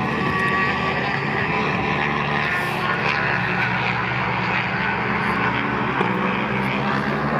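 Several small-displacement racing motorcycle engines in a steady drone, with several engine pitches heard at once.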